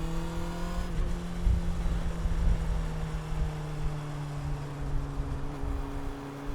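Honda CB400 Super Four's inline-four engine and exhaust under way. Its pitch rises under acceleration for about a second, then the pitch steps down, as at a gear change, and it runs on steadily with a slowly falling pitch over low wind rumble.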